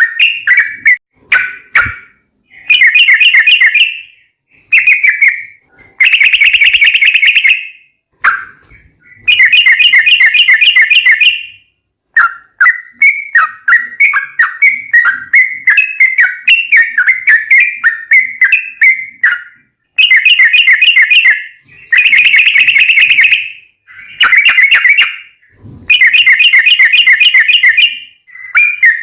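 Yellow-vented bulbul (trucukan) singing: fast bubbling phrases of rapidly repeated notes, each a second or two long with short pauses between, and a longer rambling run of notes in the middle.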